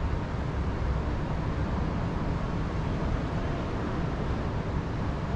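Wind outdoors, a steady low rumble that is heaviest in the bass.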